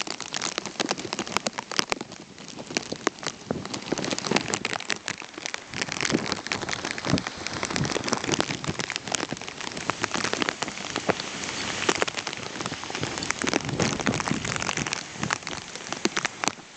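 Steady rain falling, with many sharp, close taps of drops hitting the plastic sheet wrapped over the camera.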